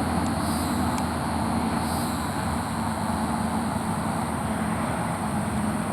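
Steady hum of road traffic with a low drone underneath. A faint high-pitched pulse comes twice, about half a second and two seconds in.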